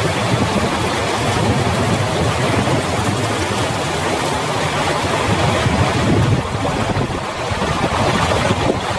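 Heavy rain falling in a steady, dense hiss, with water running over the flooded road.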